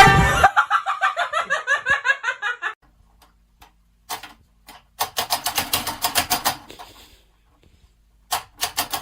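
Laughter in short rhythmic pulses, coming in three bouts with pauses between them. The middle bout is quicker.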